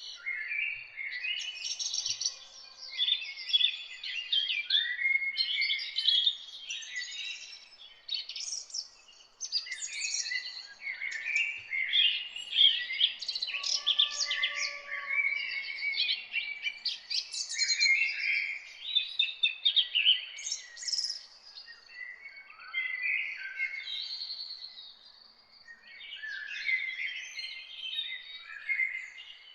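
Several songbirds singing and chirping at once, a dense chorus of quick, high overlapping chirps and trills that thins out briefly a little past the middle before picking up again.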